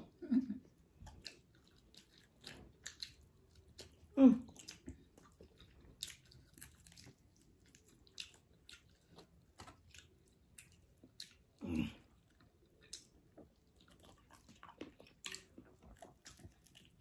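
Close-up mouth sounds of someone eating chicken wings: many small wet clicks and smacks from biting and chewing, fairly quiet. Twice, at about four seconds in and near twelve seconds, a short voiced sound from the eater breaks in.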